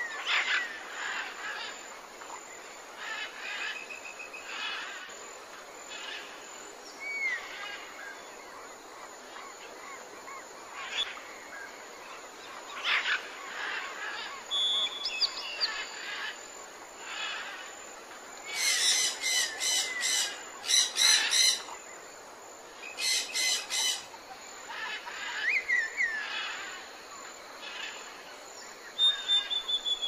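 Wild birds chirping and calling over a steady outdoor hiss: short whistled notes that slide in pitch, with a loud run of rapid, repeated calls a little past halfway through.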